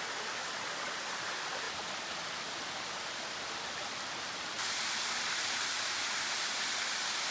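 Steady rushing of a small waterfall. About four and a half seconds in it becomes slightly louder and brighter.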